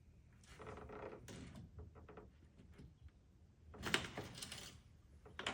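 Quiet metallic clicks and scrapes of an aircraft wing fuel-tank cap being handled and fitted back on. The loudest scrape comes about four seconds in.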